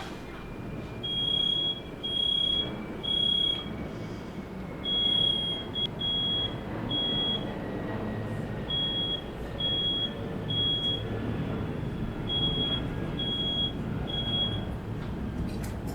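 Smoke alarm sounding its high, piercing beep in repeated sets of three, the temporal-three fire-alarm pattern, over a low background rumble. It was set off by smoke from a firework let off in a bedroom.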